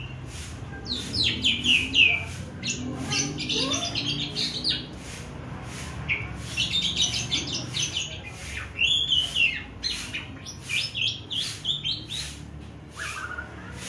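Asian pied starling (jalak suren) practising its calls: clusters of quick, squeaky chirps, chatters and short whistled notes, broken by brief pauses, as a young bird learning its sounds.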